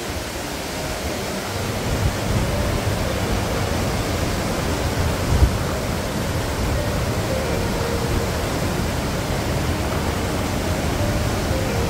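Steady rush of falling or tumbling water in a rocky mountain gorge, a full even noise with a deep rumble that grows louder about two seconds in. A brief thump comes about five seconds in.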